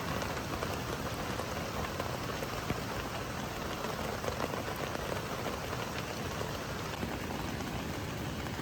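Rain falling steadily: an even hiss with scattered drop taps.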